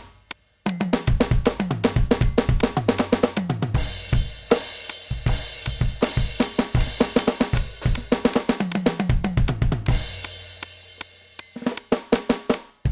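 NUX DM8 electronic drum kit played fast: kick, snare and tom fills, with crash cymbals coming in about four seconds in and again near ten seconds. The playing stops briefly just after the start and again just before the end.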